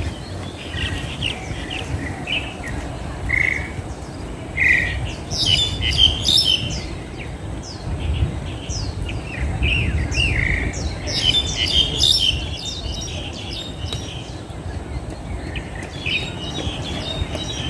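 Wild birds chirping and calling in short, scattered notes, busiest in the middle, over a steady low rumble.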